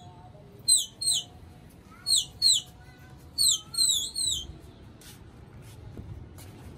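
A small bird chirping: about seven short, high, falling chirps, mostly in pairs, over the first four and a half seconds.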